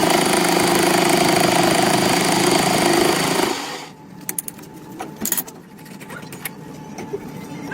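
A metalworking machine running steadily with a loud hum, switched off about three and a half seconds in and dying away within half a second. Scattered light metallic clicks and knocks follow.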